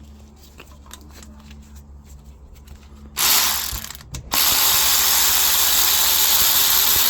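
Socket ratchet working on engine bolts: a few faint clicks at first, then loud, rapid continuous ratcheting from about three seconds in, broken by a short pause.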